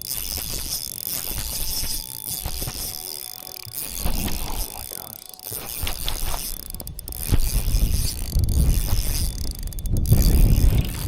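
Spinning fishing reel being cranked, a light mechanical ratcheting whir, while wind rumbles and buffets the microphone, louder near the end.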